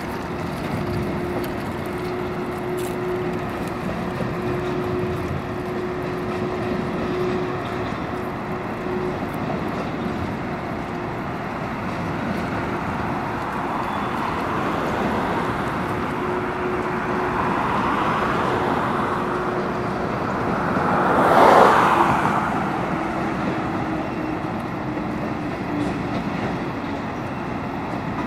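Coal hopper cars of a Norfolk Southern freight train rolling past, a steady rumble of wheels on rail with a faint steady tone running through it. About three-quarters of the way through, a brief louder surge rises and falls within about a second.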